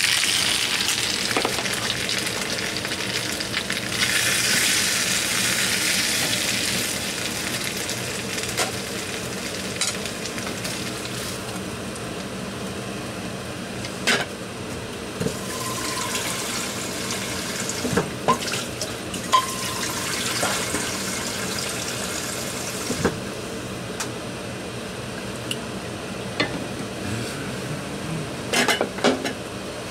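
Pork skin in a thick spicy sauce sizzling in a small saucepan, the hiss loudest at first and slowly dying down. A few sharp knocks on top, most of them in the second half.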